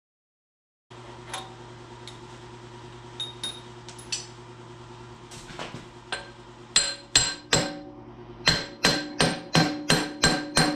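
Hand hammer striking steel with a ringing clang, over a low steady hum. A few light taps come first, then from about halfway in a run of hard blows, roughly three a second, as work goes on to free the excavator's hydraulic ram.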